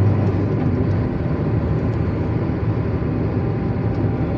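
Steady low rumble and noise of motor traffic.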